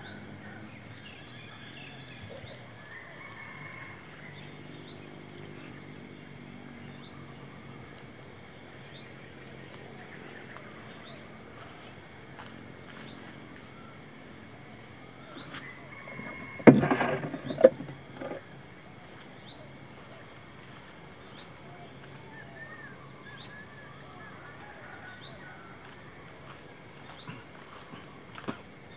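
Steady high-pitched insect drone with faint bird calls. A loud knock followed by a short rattle about seventeen seconds in.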